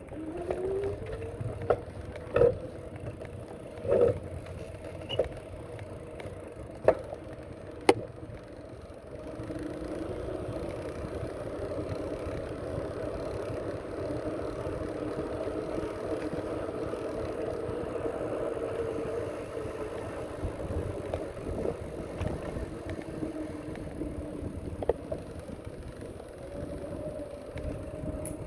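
Bicycle riding along a path: steady rolling and riding noise, with about five sharp knocks and rattles in the first eight seconds, then a steadier, slightly louder run.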